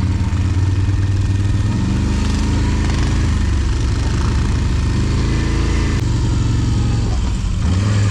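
ATV engine running under throttle, easing off for a moment near the end and then opening up again.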